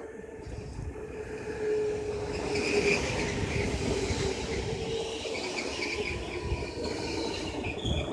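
Passenger train pulling into the station. It grows louder about two seconds in, with a steady rumble, a held whine and high-pitched squealing from the wheels and brakes.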